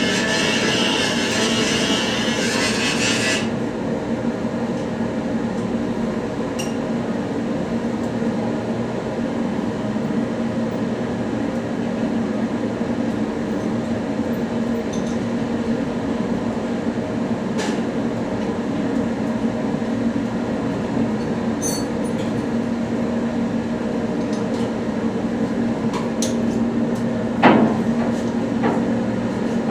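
Steady machinery hum with a hiss that cuts off suddenly a few seconds in, then a few scattered metallic clicks and one sharper knock near the end, as of tools on metal parts.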